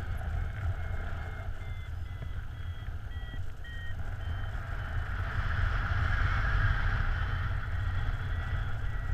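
Paraglider variometer beeping in short tones, two to three a second, its pitch stepping slowly down: the instrument signalling a climb in rising air. Under it, wind rushes steadily on the microphone, swelling for a few seconds in the second half.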